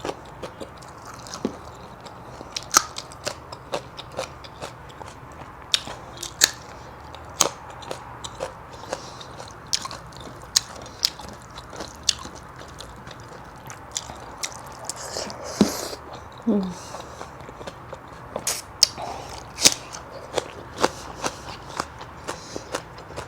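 A person eating close to the microphone: mouth chewing with irregular crisp crunches and sharp clicks, and one louder breathy sound about fifteen seconds in.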